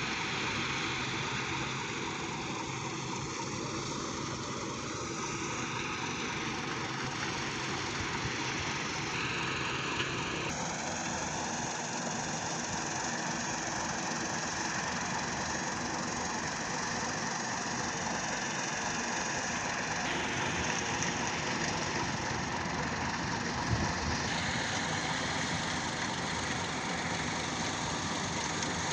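A motor running steadily, its sound changing abruptly about ten, twenty and twenty-four seconds in, with a short knock near each of the first and last changes.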